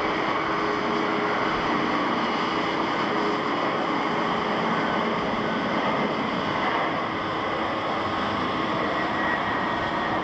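Jet airliner engines running with a steady noise and a faint held whine.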